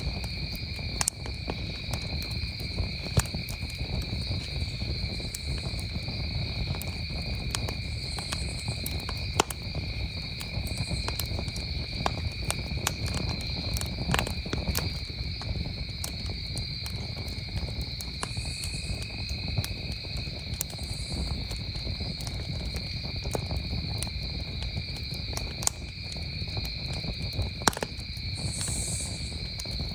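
Wood campfire crackling, with scattered sharp pops, a few of them louder, over a steady high-pitched chorus of crickets chirring.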